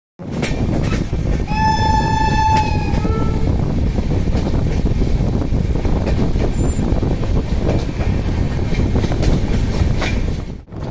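Express train running at speed: a steady rumble with wheel clicks over rail joints. A shrill train horn sounds once for about a second and a half, about one and a half seconds in.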